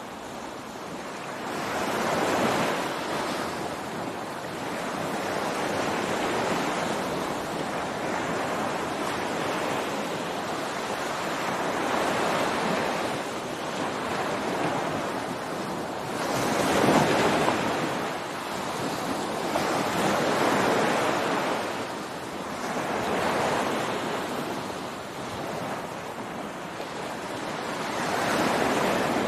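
Ocean waves breaking and washing up on a beach, rising and falling in surges every three to five seconds, the loudest about halfway through. A little wind noise on the microphone.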